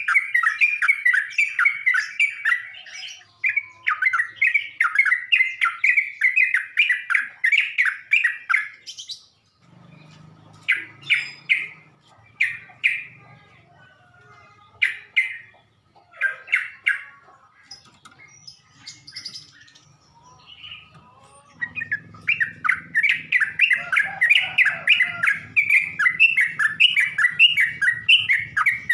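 Yellow-vented bulbul (trucukan) song used as a lure: long runs of rapid, chattering notes, with a stretch of only a few separate calls in the middle.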